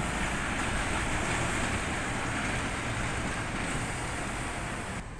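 Steady road traffic noise, with a bus passing close by and wind buffeting the microphone. The level drops abruptly near the end.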